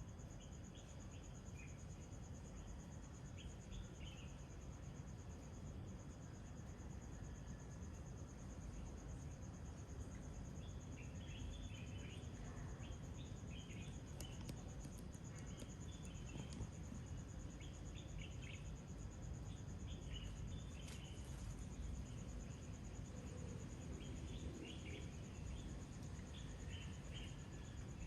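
Insects trilling in a steady high-pitched drone, with short, scattered bird chirps that grow more frequent about ten seconds in as the birds wake before sunrise.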